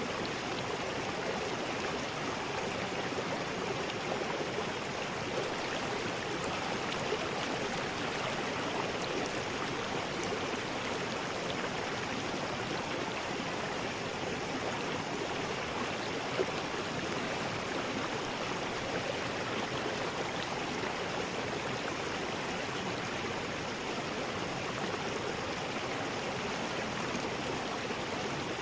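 River rapids: water rushing and splashing over rocks in a steady, unbroken roar.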